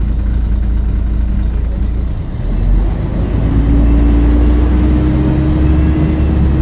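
Scania L113CRL bus's six-cylinder diesel engine running under load, loud and steady. It dips briefly about two seconds in, then pulls harder with a steady whine that rises slightly in pitch.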